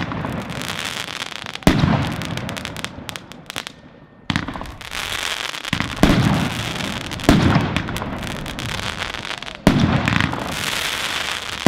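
Fireworks going off: five sharp, loud bangs one to two and a half seconds apart, with a continuous crackling hiss between them. There is a brief lull about four seconds in.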